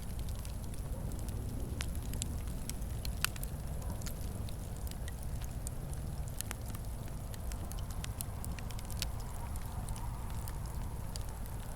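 Fireplace fire crackling: a steady low rumble of flames with scattered sharp pops and snaps, one louder pop about three seconds in.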